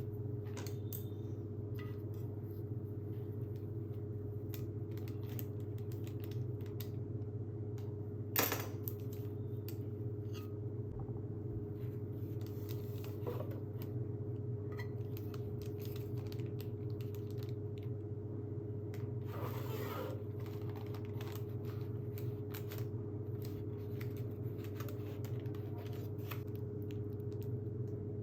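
Small clicks and taps of cake-decorating tools being handled on the work surface, with one sharper knock about eight seconds in and two brief scraping sounds, over a steady electrical hum.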